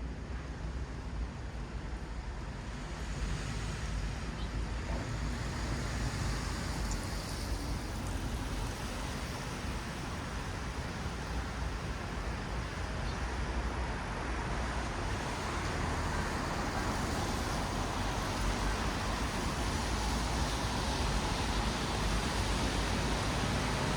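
Traffic on a wet city road: tyres hissing on wet asphalt over a low rumble of engines, growing gradually louder.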